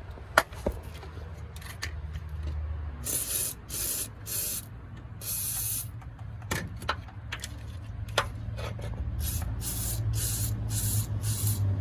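WD-40 aerosol can spraying penetrating oil onto rusty exhaust nuts and bolts, in about ten short hissing bursts from about three seconds in. A sharp click comes just after the start.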